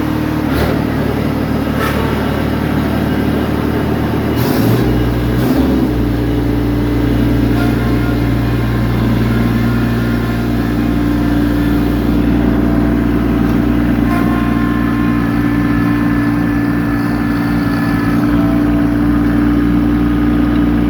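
Kubota tractor's diesel engine running steadily, with a few short clunks in the first seconds; about four and a half seconds in, the engine note shifts and stays there.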